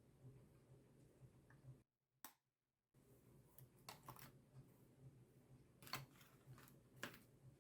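Faint scattered clicks and taps of makeup containers and tools being handled, over a low steady room hum. The sound cuts out completely for about a second near the start.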